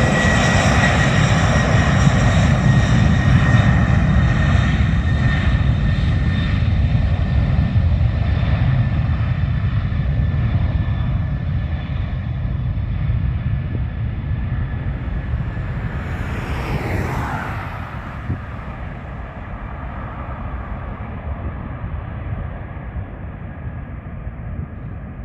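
Four turbofan engines of a Boeing 747-400 freighter running: a deep rumble with a steady high whine, slowly fading as the jet moves away. A brief whoosh passes about two-thirds of the way through.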